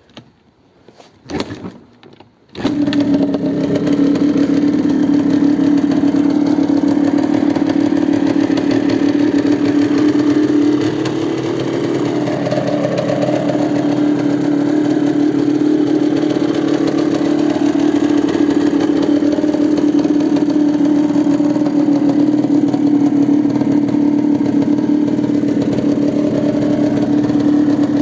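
Yamaha DT200WR's single-cylinder two-stroke engine, breathing through an RSV expansion chamber and silencer: a few short knocks, then it catches about two and a half seconds in and runs steadily at idle.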